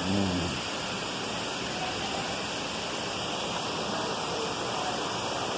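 A waterfall's falling water making a steady, even rush. A brief falling voice sound is heard at the very start.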